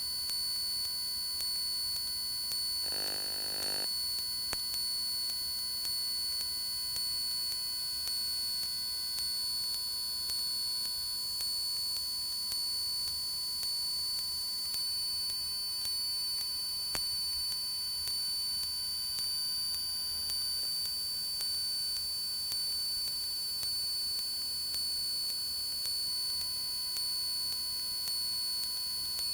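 Steady electrical hum and high whine in a Cessna 172's cockpit intercom audio in flight, the engine itself heard only faintly beneath it. About three seconds in there is a brief buzz lasting under a second.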